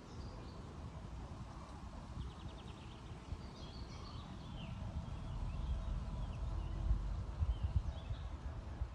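Wind rumbling and gusting on the microphone, with faint chirps and a short rapid trill from small birds.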